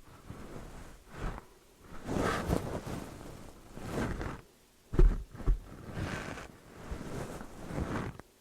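Close-up ASMR handling noises: uneven rustling and rubbing swells, with two sharp thumps about five seconds in.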